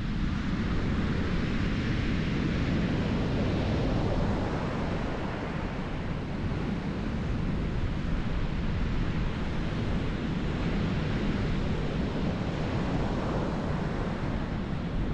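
Sea surf breaking on a beach in a steady wash, with wind buffeting the microphone as a low rumble.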